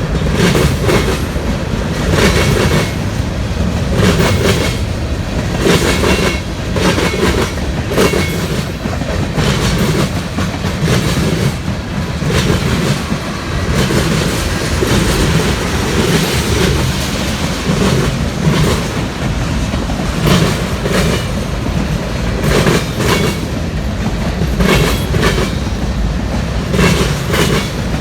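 Freight train cars rolling past at close range, a steady rumble with wheels clacking repeatedly over rail joints.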